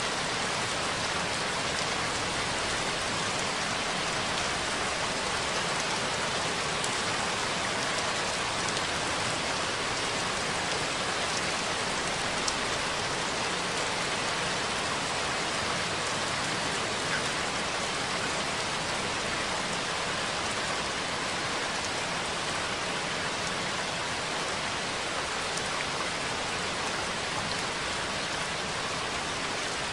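Steady rain: an even hiss of falling rain with a few single drops ticking out now and then.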